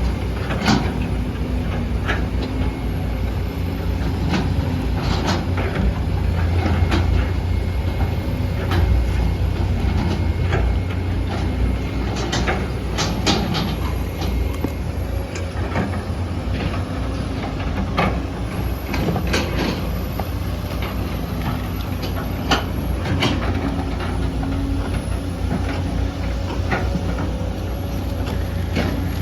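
Excavator's diesel engine running steadily under load, with irregular sharp knocks and clanks from the machine as it works.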